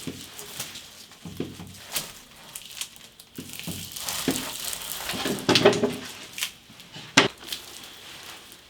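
Irregular knocks, clicks and rustling of objects being handled, with a few sharper knocks around the middle and one near the end.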